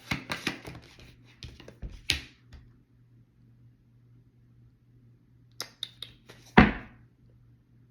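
Tarot cards being handled: a quick run of rustles and clicks, a pause, then a few taps and one louder thump about six and a half seconds in.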